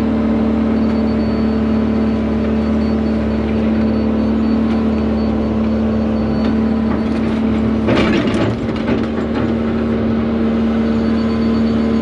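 Excavator's diesel engine and hydraulics running steadily under load while digging a trench. About eight seconds in there is a short burst of clanking and scraping from the bucket working the trench.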